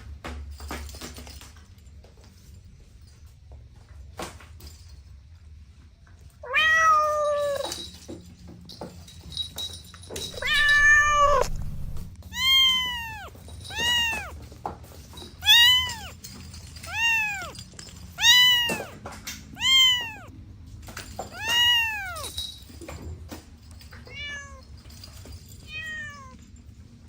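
A cat meowing over and over: two longer meows, then a run of about eight short meows, each rising and falling in pitch, roughly every second and a half. The last two meows are fainter.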